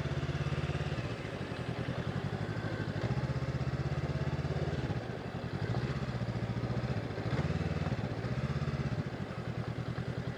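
Honda CB500X's parallel-twin engine running at low revs, its note rising and falling several times as the throttle opens and closes at walking pace.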